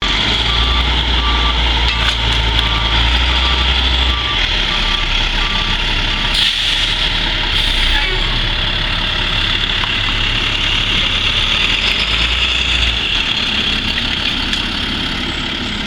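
A large waste truck's diesel engine running as it backs up, its reversing alarm sounding a steady series of beeps for about the first six seconds, after which the engine carries on alone.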